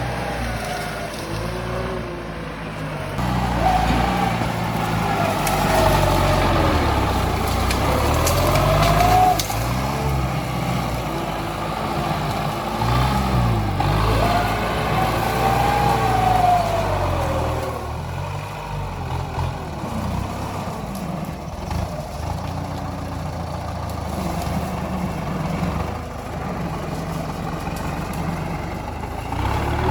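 Tractor engine working hard, its pitch swelling and dropping several times as the load changes. It is louder and busier in the first half and steadier and quieter later.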